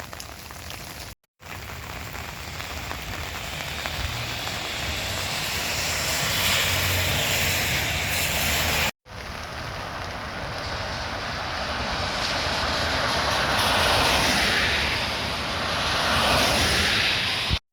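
Rain falling in gusting wind that buffets the microphone with a low rumble, the noise swelling and easing over several seconds. The sound cuts out briefly twice, about a second in and about nine seconds in.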